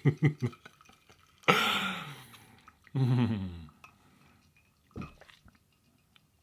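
A man drinking, gulping in several quick swallows, then two loud exhaled 'ahh' sounds, each falling in pitch. A few faint clicks follow near the end.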